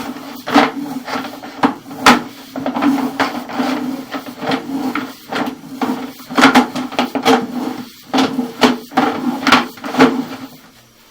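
Sewer inspection camera gear in use: irregular knocks and rattles, several a second at times, over a steady low hum, fading near the end.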